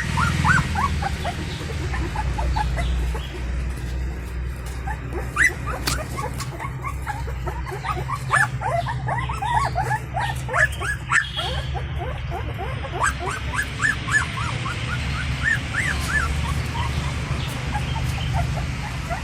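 Puppies whimpering and squealing: many short, high cries, each rising and falling, coming in quick runs throughout, over a steady low hum.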